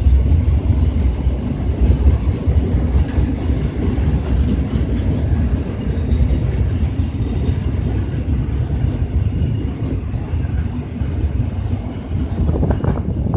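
Diesel freight train rolling past, a steady low rumble of its wagons' wheels on the rails.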